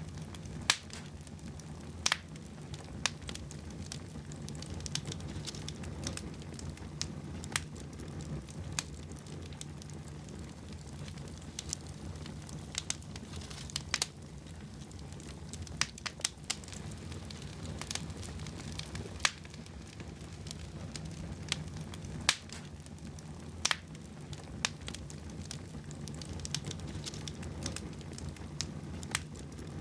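Fire burning in a fireplace, crackling steadily with irregular sharp pops, a dozen or more, over a low continuous rumble of flame.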